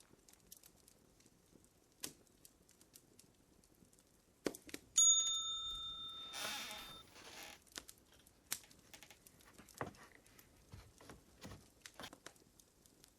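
Fire crackling with scattered sharp pops. About five seconds in, a loud bell-like ding rings and fades over a second or two, over a short burst of rustling hiss.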